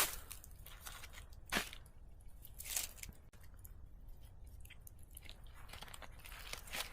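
A few short, separate crunches and crackles with quiet between them, the loudest about a second and a half in.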